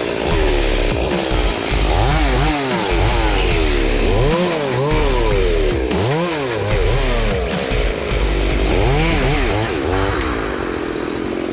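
Chainsaw engine revving up and down over and over, its pitch rising and falling every second or two.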